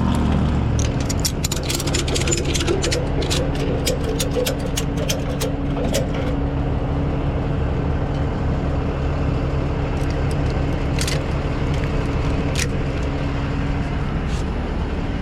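Ratchet tie-down strap being cranked tight, a quick run of sharp clicks over the first several seconds and a few single clicks later on. Underneath, a truck engine idles steadily.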